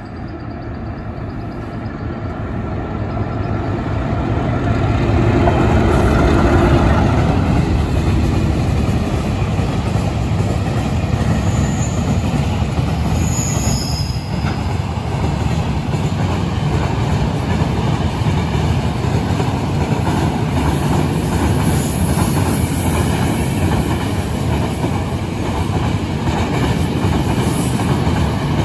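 A train passing close by on the rails, with the sound of its wheels rolling over the track. The sound builds over the first six seconds or so, then holds steady and loud as the cars roll past.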